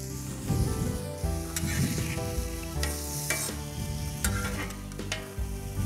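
Marinated chicken breast pieces sizzling on a hot steel plancha as a metal spatula scrapes across the plate and turns them, with several sharp scrapes of the blade. Light background music plays underneath.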